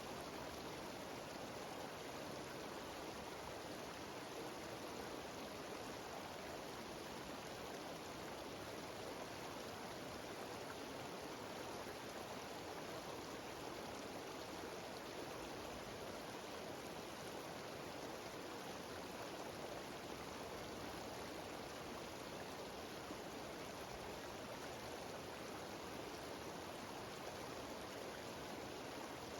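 Steady rushing of a mountain stream cascading down a series of small waterfalls, an even, unbroken water noise.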